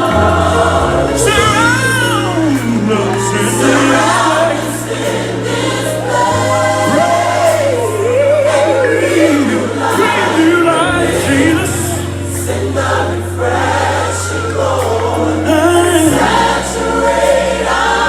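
Gospel worship music: a choir singing over sustained bass notes that change every few seconds.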